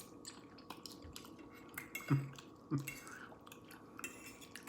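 Close-up chewing and wet mouth sounds of a person eating, with many small clicks. Twice, a little after two seconds in, a short low hum of the voice rises above the chewing.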